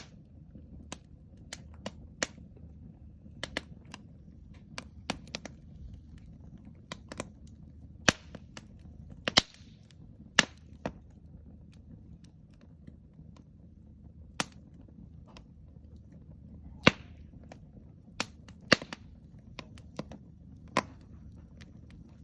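Wood fire crackling: irregular sharp pops and snaps, several much louder than the rest, over a low steady rumble.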